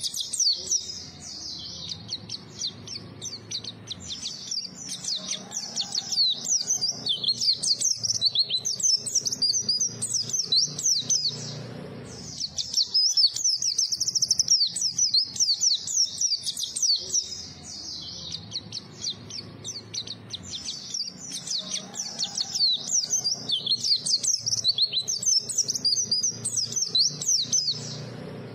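White-eye (pleci) singing a fast, high-pitched twittering song of rapid chirps in long unbroken phrases, with a brief pause about twelve seconds in.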